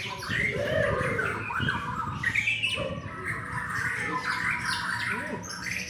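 Several white-rumped shamas singing at once, their songs overlapping in a dense stream of quick rising and falling notes.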